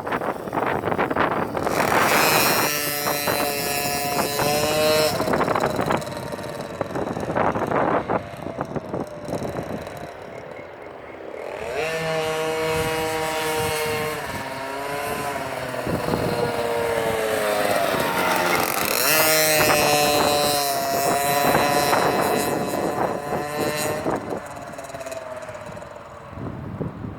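Minibike's small engine running and revving as the bike rides around, its pitch rising and falling. It is loudest in three stretches, starting about 3, 12 and 19 seconds in, with the pitch dropping away near the end of the middle one.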